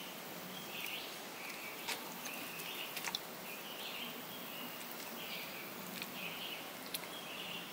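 A bird chirping over and over, short calls roughly once a second, with a few sharp clicks in between.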